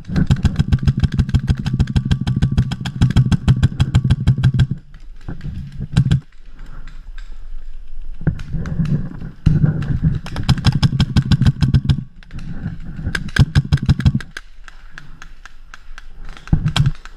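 Paintball marker firing in rapid bursts of about ten shots a second, each burst a fast string of sharp cracks: one long burst at the start, then several shorter ones, the last near the end.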